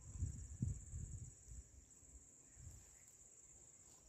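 Faint, steady high-pitched chorus of insects in summer vegetation, with a few low thuds in the first second or so.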